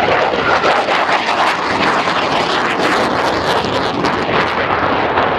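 Fighter jet flying low overhead: loud, steady jet engine noise with a ragged crackle.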